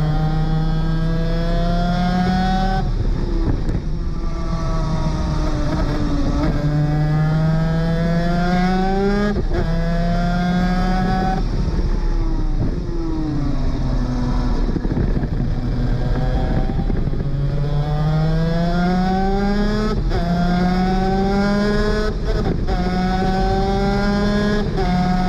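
A 250cc superkart's two-stroke engine at racing speed. It climbs in pitch through the gears with a brief break at each upshift, and twice drops in pitch under braking and downshifts before pulling hard again.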